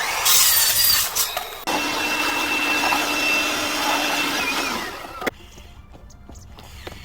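A power tool running loudly with a steady whine for about five seconds, then winding down and stopping.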